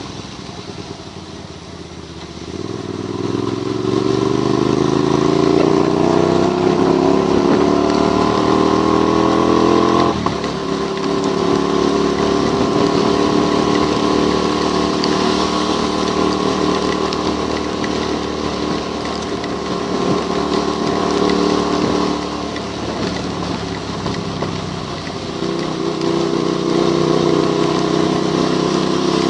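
Motorcycle engine accelerating, its pitch rising for several seconds and then dropping abruptly about ten seconds in as it shifts up a gear. It then holds a steady speed, eases off and picks up again near the end, over a constant hiss of wind and tyres on the wet road.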